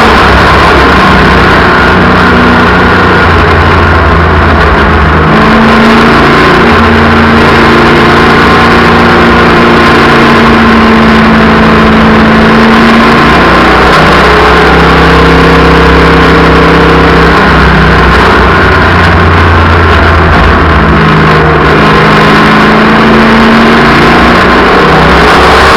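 Several race car engines running hard around an oval track, loud throughout, their notes rising and falling and overlapping as the cars pass and lift for the corners.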